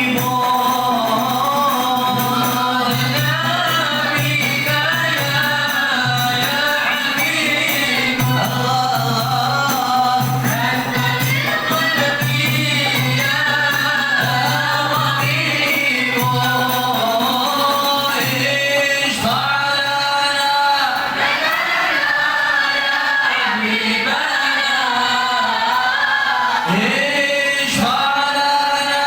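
A group singing a devotional qasidah in unison with hand-drum accompaniment. About two-thirds through the drumming drops away and the voices carry on with little or none.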